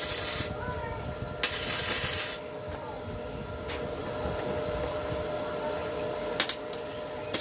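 Compressed air hissing in short bursts of about a second each, as from a spray gun or air nozzle, with a few sharp clicks near the end over a steady faint hum.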